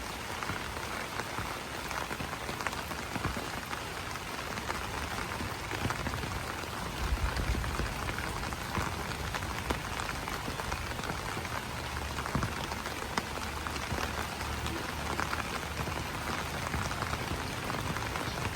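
Steady rain pattering on banana leaves: a dense, even spatter of countless small drops, with a low rumble coming and going in the background from about a third of the way in.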